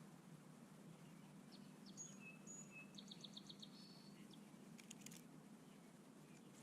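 Faint backyard songbird calls: scattered short high chirps, with a quick run of about six chirps in the middle. A few soft clicks follow about five seconds in, over a steady low background hum.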